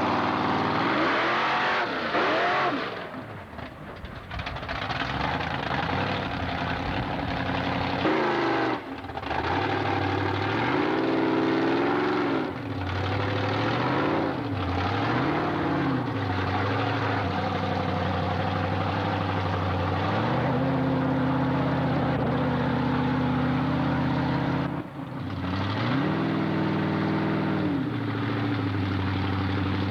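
Excaliber monster truck's engine revving hard and repeatedly, pitch rising and falling with each throttle blip through the middle, then held at high revs for long stretches, cutting out briefly a couple of times.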